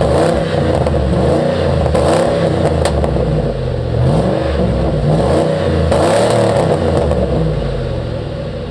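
A 1997 Ford F-150's engine revved repeatedly through its muffler-delete exhaust: a throaty exhaust note climbing and dropping back about four times, easing toward idle near the end.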